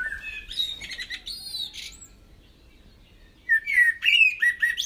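Bird song: varied whistled and warbling phrases that glide up and down in pitch. It pauses about two seconds in and comes back louder about three and a half seconds in.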